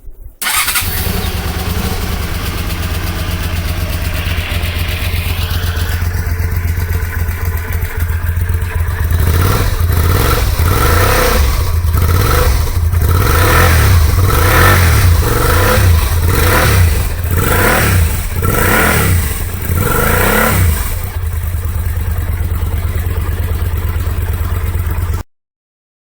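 A Honda Xelvis 250 V-twin motorcycle engine starts about half a second in and idles, then is blipped through a quick series of throttle revs in the middle before settling back to idle. The sound cuts off suddenly near the end.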